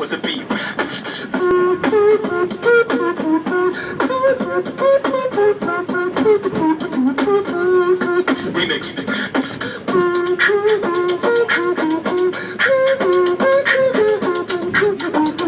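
A man beatboxing: fast mouth-made drum beats, clicks and snares, with a hummed melody line carried over the rhythm.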